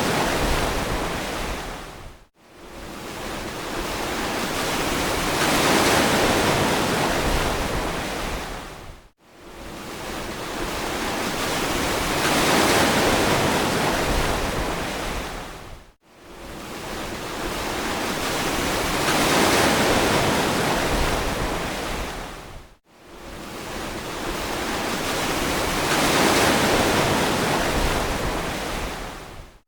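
Ocean waves washing onto a beach, swelling and fading in a regular cycle about every seven seconds, with the sound cutting briefly to silence between swells.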